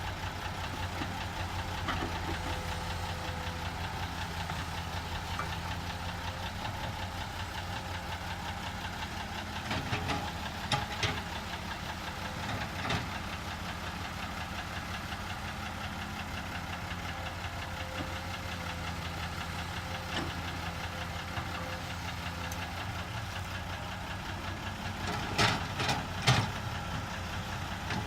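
Heavy diesel engine of the excavator or dump truck running steadily. A few short knocks cut through it about a third of the way in, and louder ones near the end.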